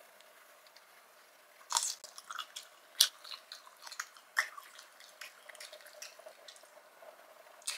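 Close-miked eating sounds: wet chewing and smacking of Cajun-sauced shrimp, starting after a quiet second or so, with a scatter of sharp wet clicks, the loudest about three seconds in.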